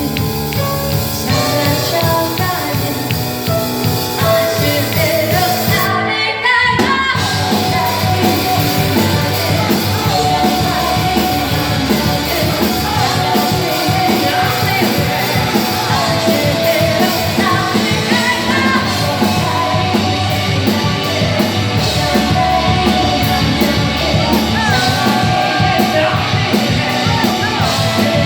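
Live rock band playing with a lead vocal over drums, bass and guitars. About six seconds in there is a brief break, and then the full band comes back in a little louder.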